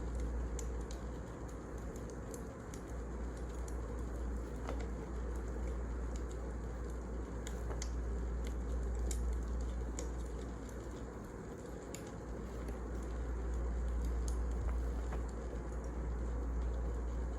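Wood fire burning, with small sharp crackles and pops at irregular moments over a steady low rumble.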